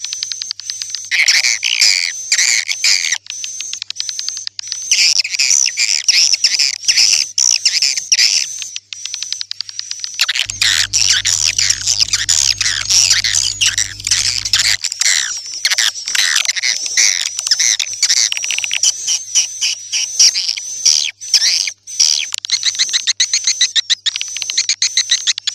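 Swiftlets twittering in a dense, rapid run of high chirps, from a swiftlet call track used to lure swiftlets into a nesting house. A low hum sits under the calls from about 10 to 15 seconds in.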